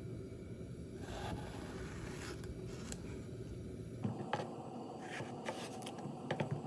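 Kitchen food-prep handling sounds: light scraping and rustling, then a few sharp taps about four seconds in and again near the end, over a steady low background hum.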